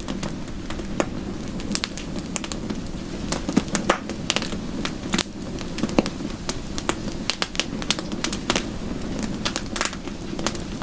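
Wood fire crackling in a fireplace: many sharp, irregular pops and snaps over a steady low rushing bed.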